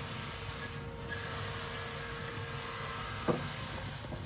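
Steady background hum with a low rumble, and one sharp knock about three seconds in.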